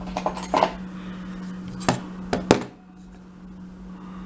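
Small metal lockpicking tools clinking and clicking as they are picked up and handled, about six sharp clicks in the first two and a half seconds, then quieter.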